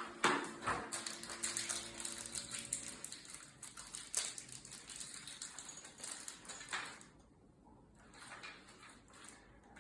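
Rustling and small clicks of electrical wires and small parts being handled, with a faint steady hum for the first three seconds; the handling dies down about seven seconds in.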